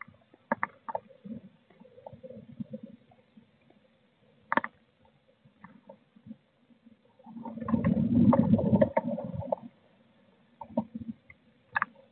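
A blue tit moving about inside a wooden nest box: scattered light taps and scratches of claws and beak on the wooden floor, and about seven seconds in a loud rustling scuffle lasting a couple of seconds.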